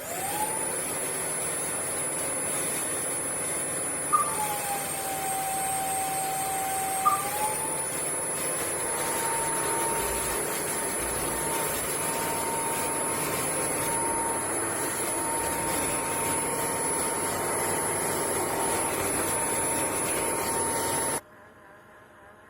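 Bissell CrossWave OmniForce cordless wet-dry vacuum switched on, its motor whine rising to speed. About four seconds in, a click drops the motor to a lower pitch, and about three seconds later another click brings it back up. It then runs steadily and cuts off suddenly near the end.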